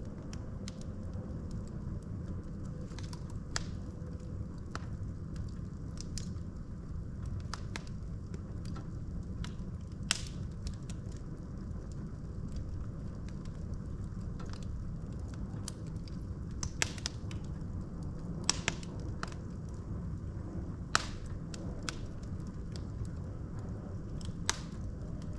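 Wood fire burning in a fireplace: a steady low rush of flames with irregular sharp crackles and pops from the burning logs, a few louder pops scattered through.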